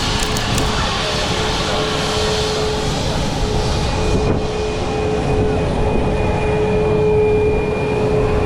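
Jet airliner engines running, a steady loud drone with a held whine over it; a thinner high whine joins about halfway through.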